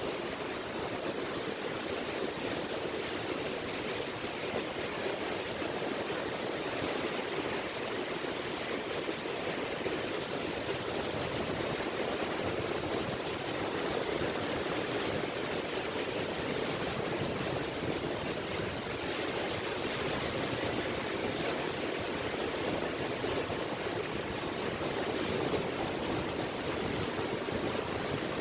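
Small, gentle sea waves washing on a beach shore: a steady, continuous wash of water that swells a little now and then, with no big breakers.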